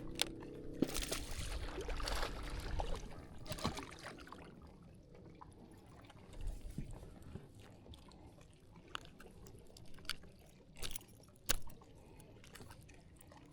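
Water splashing and trickling beside a kayak for the first few seconds, then quieter with scattered small clicks and a few brief splashes.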